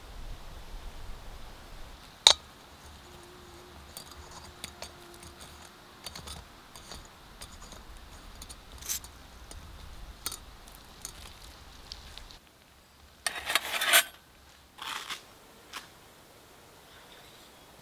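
Light metallic clicks and clinks of a compact canister stove being handled: its pot supports unfolded and the burner screwed onto a butane gas canister. One sharp click comes about two seconds in, and a short louder clatter of metal handling comes about three quarters through.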